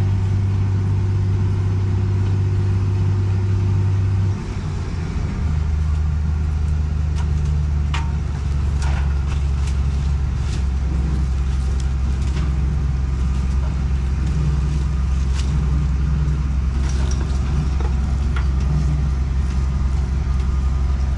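Zmaj 142 combine harvester's diesel engine running at low speed as the machine creeps along a narrow track. The engine note drops about four seconds in, and scattered sharp clicks and snaps come later.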